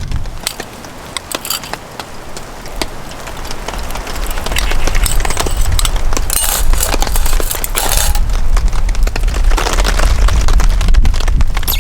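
Gusty wind buffeting the microphone in a heavy low rumble, with many sharp cracks and pops over it. The wind eases about half a second in and picks up strongly again from about four seconds.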